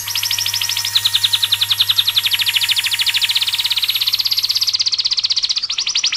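A songbird singing a long, fast trill of rapidly repeated high notes, shifting to a new phrase about a second in and again near the end.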